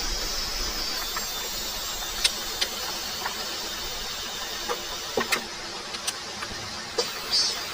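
Steady heavy rain, with scattered single drops tapping sharply on a nearby surface.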